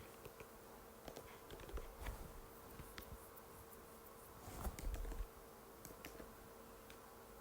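Faint, irregular clicks of keystrokes on an Apple MacBook butterfly keyboard, with a quick flurry of keystrokes a little past the middle, over a faint steady hum.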